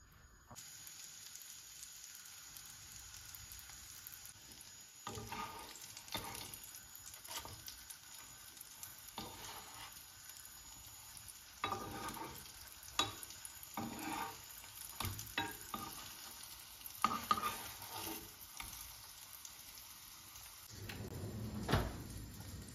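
Patties frying in oil in a pan, with a steady sizzle. From about five seconds in come repeated scrapes and taps of a metal spoon against the pan as they are turned. A low rumble swells near the end.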